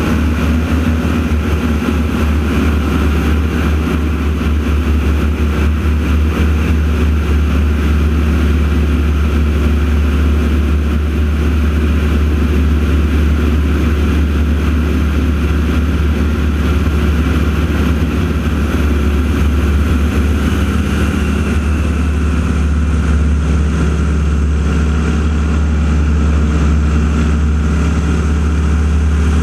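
Steady, loud drone of the radial engines of the AeroShell team's North American T-6 Texans in flight, with a strong low hum.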